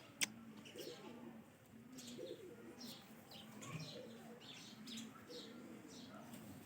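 Faint bird calls: a low note repeated steadily about every half second or so, with scattered short high chirps.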